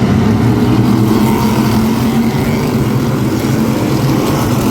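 Race car engines running on the track, a loud steady drone with no break.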